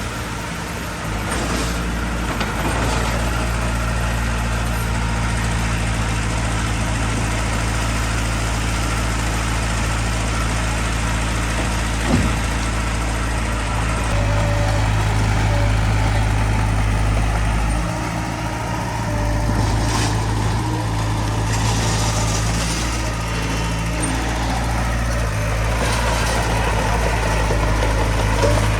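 Heavy diesel engine of earthmoving machinery running steadily, with its level shifting a little as it works and a single short knock about halfway through.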